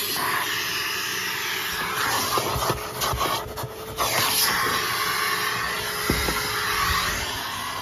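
Numatic Sir Henry vacuum cleaner running: a steady motor whine under a rush of suction air whose tone wavers up and down as the nozzle works, with a brief dip about halfway through.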